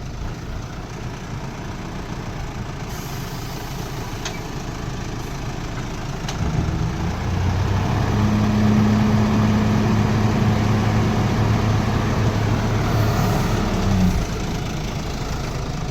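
Ashok Leyland 1015 tipper truck's diesel engine running, then revving up about six seconds in and holding a steady higher note while it raises the tipper body. The engine drops back suddenly near the end.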